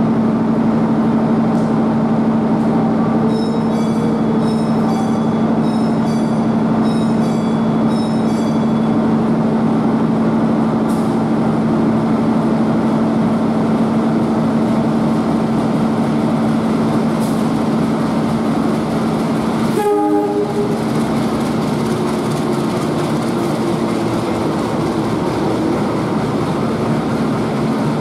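Diesel-hauled passenger train running into a station platform, with a steady hum throughout. A pattern of short, high ringing notes repeats for several seconds early on, and a brief pitched blast comes about twenty seconds in.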